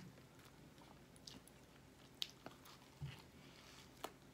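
A person chewing and biting into a Filet-O-Fish sandwich: faint mouth sounds with scattered soft clicks, and a sharper click about four seconds in.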